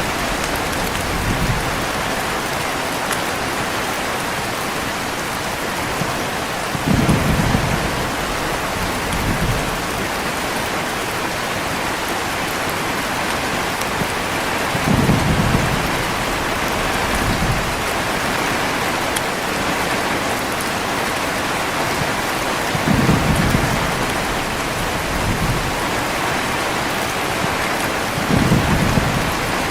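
Heavy rain falling steadily, with short low thunder rumbles about every eight seconds, each followed by a fainter rumble a couple of seconds later.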